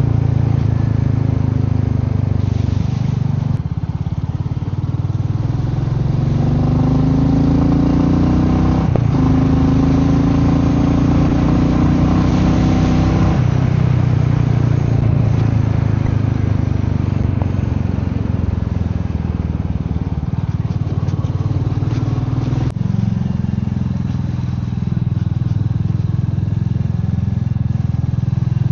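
Royal Enfield Meteor 350's single-cylinder engine running on the move. Its note climbs as the bike accelerates from about a quarter of the way in, drops back just before halfway, and then holds steady.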